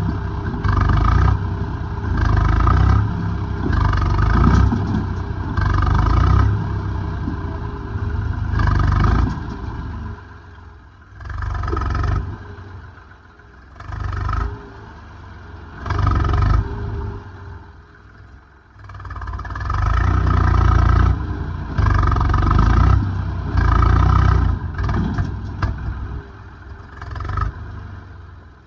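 Heavy diesel engine revving up and down in repeated surges, about one a second at first and then in longer, spaced-out pushes, with some mechanical clatter.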